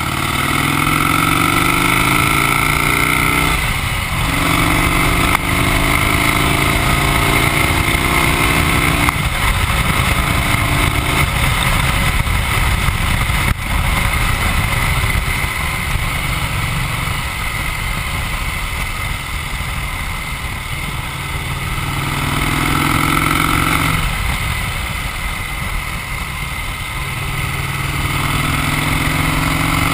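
Vincent 998 cc V-twin motorcycle being ridden and accelerating through the gears. The engine note rises, drops back at each upshift about 4, 9 and 11 seconds in, runs steadily for a while, then climbs again twice near the end.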